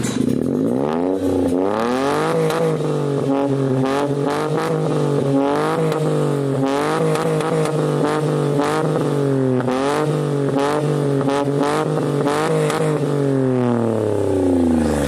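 Toyota Agya engine running through a branched Remus aftermarket exhaust, revved up from idle and blipped again and again in quick rises and falls, then dropping back toward idle near the end.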